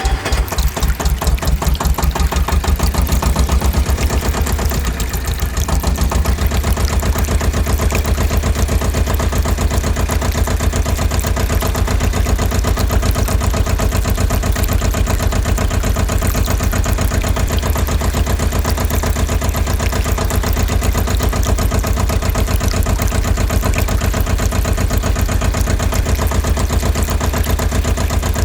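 Small engine of a miniature model tractor running steadily with a fast, even chugging pulse, dipping briefly about four seconds in and then settling.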